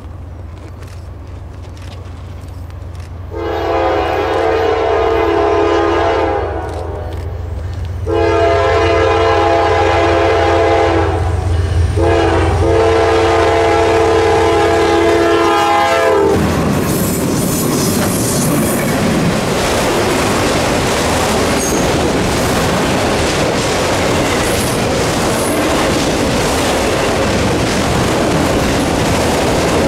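Norfolk Southern freight locomotive's air horn sounding the grade-crossing signal: two long blasts, a short one, then a long one. After that the train passes close by, a steady loud rumble of wheels on rail.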